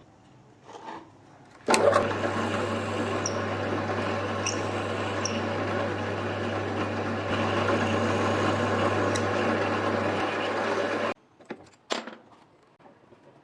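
Electric power tool switching on and running steadily for about nine seconds under a low motor hum, then cutting off abruptly, with a couple of short knocks after it stops.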